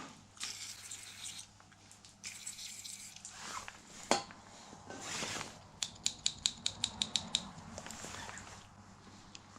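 Small workshop handling noises: several short hissing, rustling bursts and a sharp click, then a quick run of about a dozen even clicks, about eight a second, past the middle.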